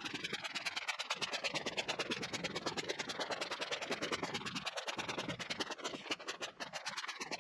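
Rapid, evenly spaced scratching, several strokes a second, going on steadily.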